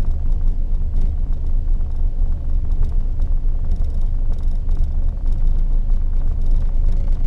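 1974 Valiant engine running rough just after a hard cold start, struggling and close to stalling but keeping going, heard from inside the cabin.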